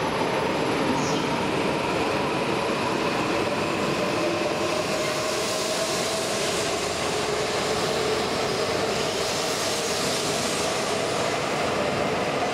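E4 series double-decker Shinkansen pulling out of the platform and gathering speed: a steady rumble of the cars rolling past, with a motor whine that slowly edges up in pitch.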